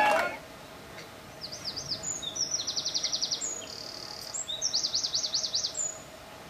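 Bird song of high chirps and rapid trills, in two phrases with a short pause around four seconds in, stopping about six seconds in.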